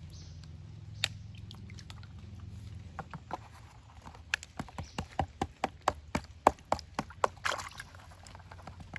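A gold pan being worked while panning down to the heavy sands: a quick run of sharp knocks, about three a second, starting about three seconds in and stopping about a second and a half before the end, after a single click about a second in.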